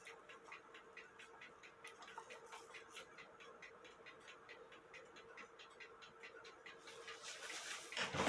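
The verge escapement of an 1880 Fleig hunter's cuckoo clock movement ticking faintly and evenly, about four ticks a second, with a faint steady hum underneath. The movement is running on test after its verge and crutch were adjusted. A rustling handling noise rises near the end.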